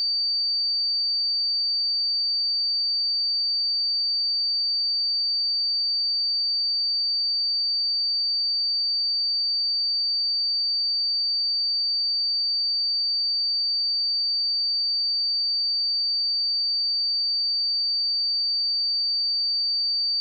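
A steady 4615 Hz sine-wave test tone: one pure, unbroken high-pitched tone at a constant level.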